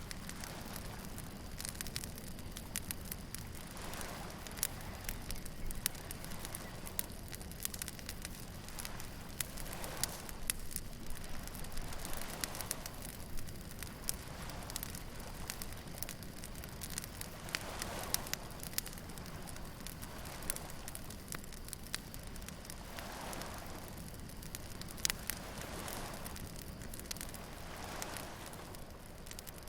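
Beach bonfire crackling, with frequent sharp pops of burning wood over a steady low rumble. Waves wash in softly every few seconds.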